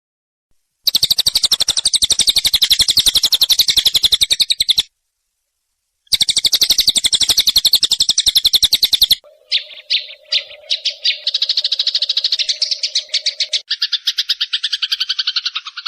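Eurasian tree sparrow fighting call: two long runs of very fast, evenly repeated chirps, separated by a short pause. After that the sound changes to a different rapid pulsing call over a steady low hum, and near the end to a lower-pitched pulsing call.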